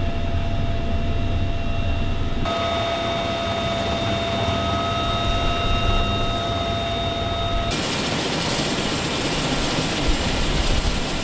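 Military helicopter turbine engines whining in steady high tones over a low rotor rumble. The sound changes abruptly twice, about two and a half and seven and a half seconds in.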